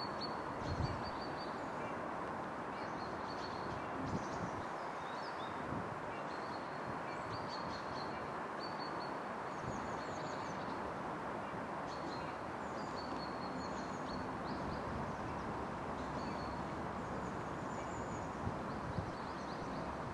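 Outdoor ambience: a steady rushing background noise with small birds chirping in short high notes throughout, and a few soft thumps.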